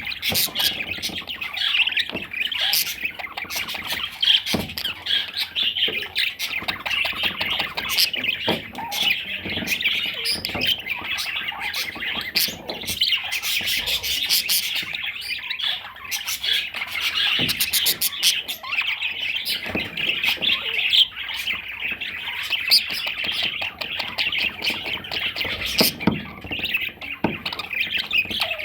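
Budgerigar chattering without a break, with scattered sharp clicks.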